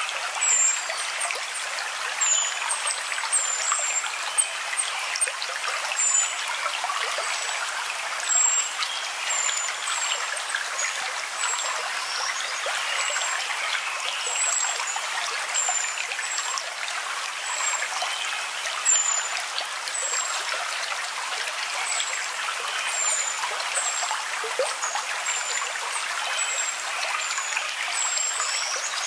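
Steady trickling of running water, with short high chirps repeating about once a second.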